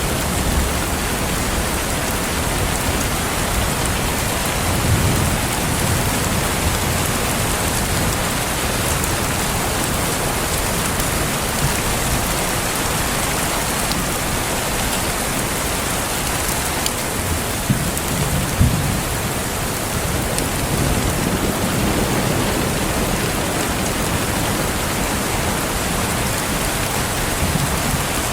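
Steady rain falling, with a few brief low rumbles, around 5 seconds and again around 18 seconds in.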